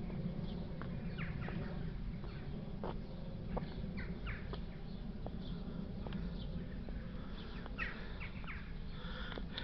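Small birds chirping in short, quick calls scattered throughout, over a steady low rumble.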